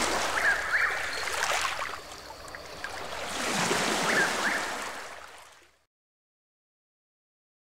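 Nature-sound recording of running water, swelling twice, with two pairs of short, high rising chirps. It fades out to silence a little past halfway.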